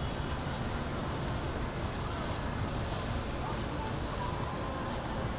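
Boat engines and water wash, a steady low rumble, with wind buffeting the microphone.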